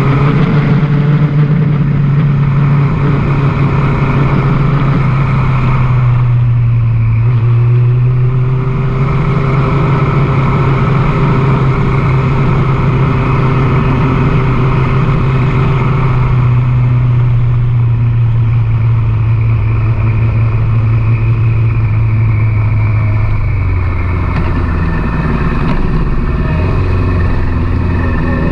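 Yamaha sport motorcycle's engine running under way at a steady cruise. Its pitch eases down slowly, steps lower about 23 seconds in as the bike slows, then climbs near the end as it accelerates again.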